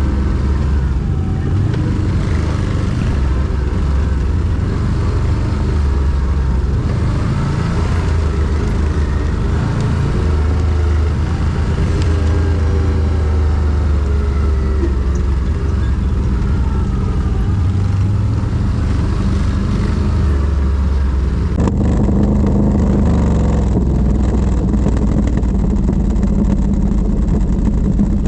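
ATV engine running under way, its revs rising and falling as it rides. About 22 seconds in the sound changes abruptly and turns duller.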